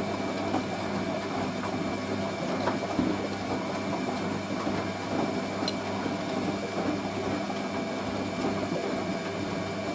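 Hoover A3060 Electronic 1100 washing machine running through its rinse, a steady hum with a thin high whine that stops just before the end.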